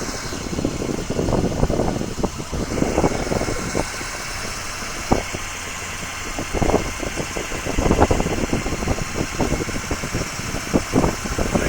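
Steady low rumble of an idling vehicle engine, with irregular crackles and thumps over it.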